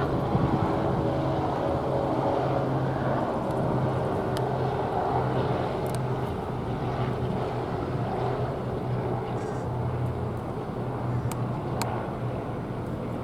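Steady low engine hum with a constant drone of a few fixed pitches over a rumble, and a few faint ticks.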